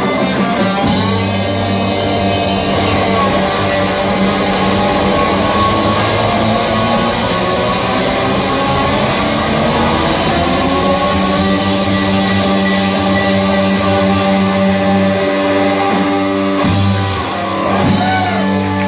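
Live rock band playing, with electric guitar, bass and drums and long held notes.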